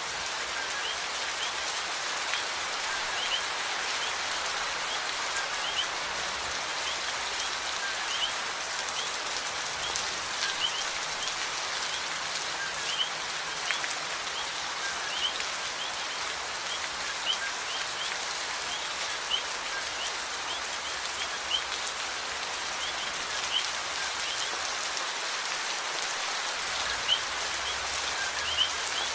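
Steady rain falling, an even hiss with many individual drops standing out as brief sharper taps.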